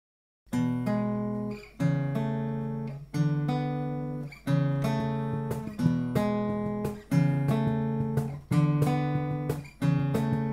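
Acoustic guitar strumming chords, one accented strum about every second and a half, each left to ring and fade before the next.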